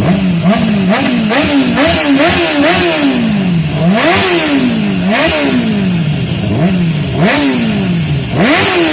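BMW S1000RR's inline-four engine through a full Akrapovic exhaust system, revved hard. It starts with a run of about six quick throttle blips, then gives four bigger revs, each climbing sharply and dropping away slowly, loudest at the top of each rev.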